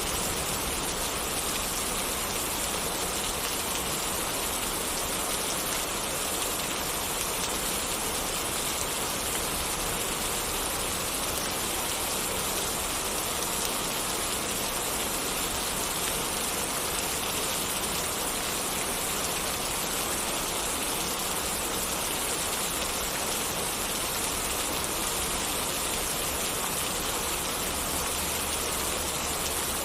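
Steady rain falling, an even unbroken hiss that does not change.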